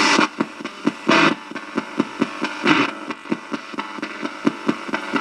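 Spirit box (a radio that scans stations without stopping) sweeping: a fast, even chop of clicks, about five or six a second, over hiss, with brief louder bursts of static and station fragments about a second in and near the middle.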